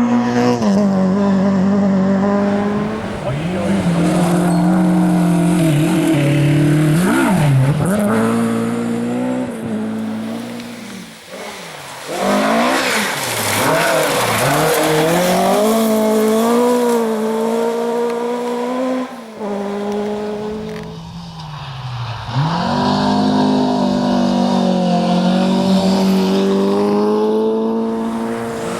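Ford Escort rally cars driven hard, engines revving high and dropping back through gear changes as they pass, with the sound easing off twice between runs.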